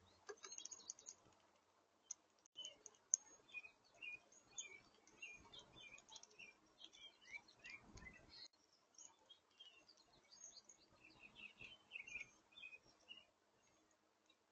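Faint chirps and short calls of several small songbirds, with a few sharp clicks mixed in.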